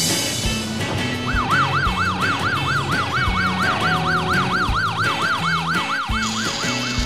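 Police car siren sound effect in a fast yelp, rising and falling about four times a second, starting about a second in, over background music with a steady beat.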